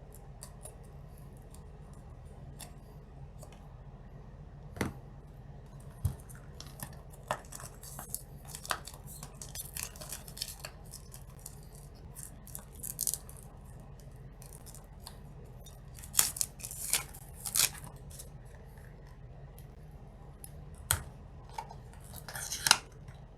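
A trading-card deck box being opened and handled: scattered sharp clicks, snips and crisp rustles of cardboard and plastic wrap, with a cluster of louder crackles about two-thirds of the way through and again near the end.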